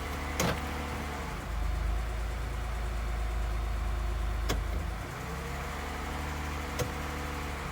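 Toyota 2GR-FE 3.5-litre V6 idling shortly after a start, a steady low hum that swells for a few seconds and then settles back. Three sharp clicks sound over it.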